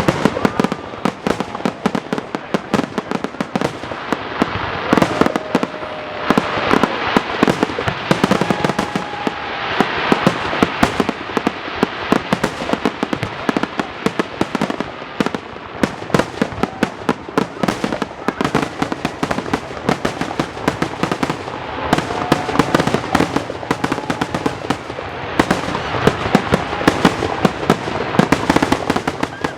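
Fireworks finale barrage: a dense, unbroken run of aerial shell bursts and crackling reports, many bangs a second with no let-up.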